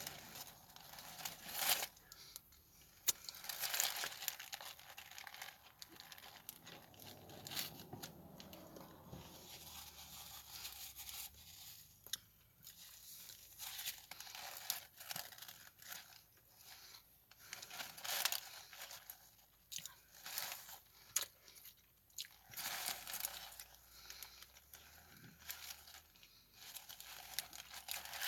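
Close-up chewing and crunching of a hard, dry croissant breakfast sandwich, with irregular crunches and crackles throughout and some crinkling of paper in between.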